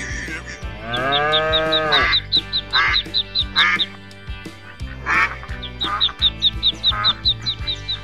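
Ducklings peeping in a quick run of short high chirps, about four or five a second, with several duck quacks, over background music.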